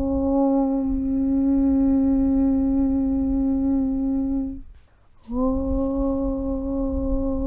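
A sustained, hummed "Aum" chant on one steady pitch. It breaks off about four and a half seconds in for a brief gap, then starts again, sliding slightly up into the same note. A low rumble runs beneath it.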